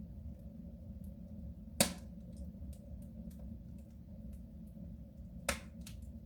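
Wood fire burning in a soapstone stove: a steady low rumble of flames with two sharp crackling pops, about two seconds in and again near the end, and a few faint ticks between.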